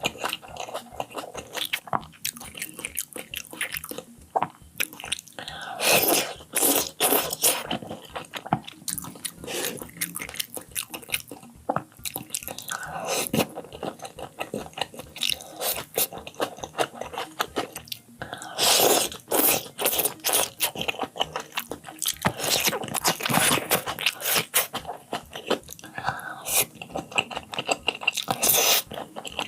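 Close-miked eating of salmon sushi and sushi rolls: chewing and biting with dense wet clicks and mouth sounds, with several louder bursts of bites along the way.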